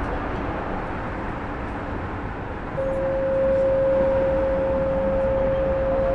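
Alstom AS-02 metro train heard from inside the car: a steady running rumble. About three seconds in, a single steady mid-pitched tone comes in and holds, and the sound gets a little louder.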